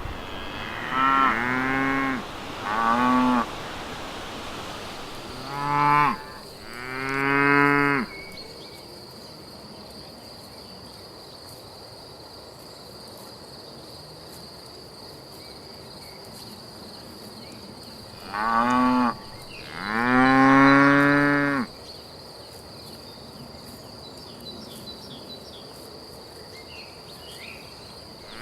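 Holstein cows mooing: six calls in three pairs, a short pair in the first few seconds, another about six seconds in, and a last pair near twenty seconds, the final moo the longest and loudest. A steady high insect trill runs underneath from about four seconds in.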